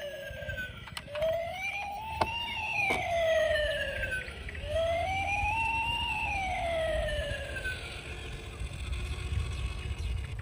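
Toy vehicle's electronic siren wailing, slowly rising and falling in pitch through about three cycles and stopping about eight seconds in, over a low rumble with a few sharp clicks.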